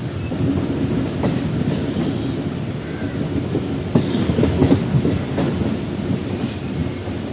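MEMU electric multiple-unit train running along the track: a steady low rumble with wheels clacking over rail joints, several sharper clacks coming close together about four to five and a half seconds in.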